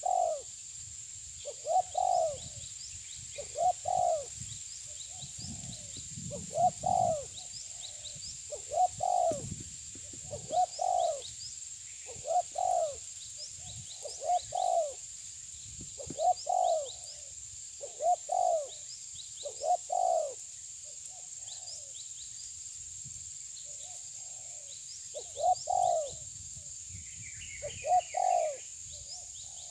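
A bird cooing over and over, a low hooting note roughly every one to two seconds, with faint high chirps from smaller birds behind it.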